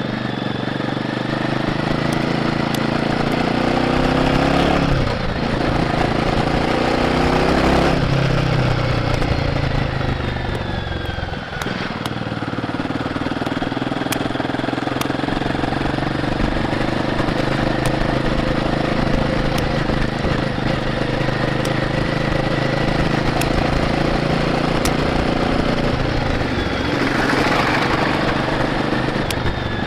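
Royal Enfield Guerrilla 450's single-cylinder engine through its stock exhaust, riding on the road: the engine note climbs, drops at a gear change about five seconds in, climbs again, dips once more near twelve seconds, then holds a steady cruise.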